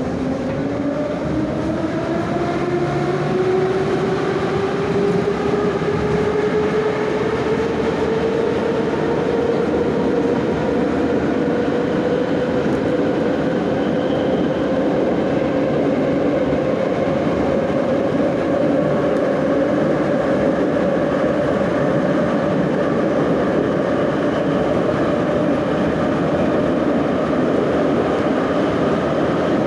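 Moscow Metro 'Nomernoy' (81-717/714) train running between stations, heard inside the car. The traction motor whine rises steadily as the train accelerates, then holds a level pitch at running speed over the rumble and clatter of the wheels on the rails.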